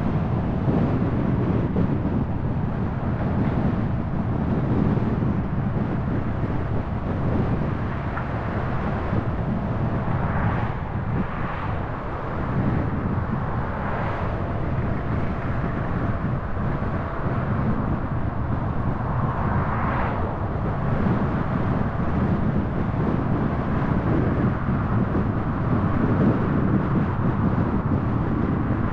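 Car driving, a steady rumble of road and engine noise with a few brief swells of rushing sound along the way.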